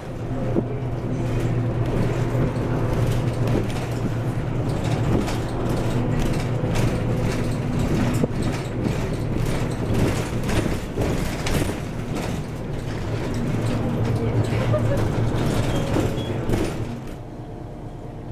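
City bus heard from inside the cabin: a steady low engine drone with frequent short rattles and clicks, easing off near the end.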